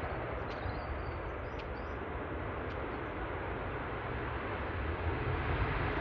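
Jet airliner engine noise: a steady rushing sound with a low rumble that grows a little louder near the end.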